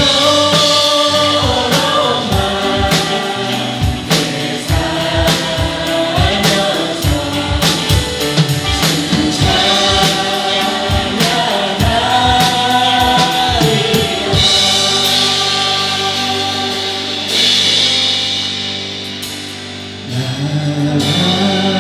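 Worship band and singers performing a gospel-style praise song, with sung melody over a steady drum beat. About two-thirds of the way through, the drums drop out, leaving held chords, and a rising bass line near the end leads into the next song.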